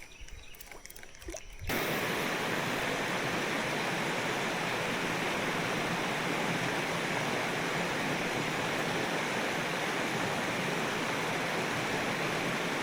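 Creek water flowing steadily, a constant rushing that starts abruptly about two seconds in, after a few faint clicks.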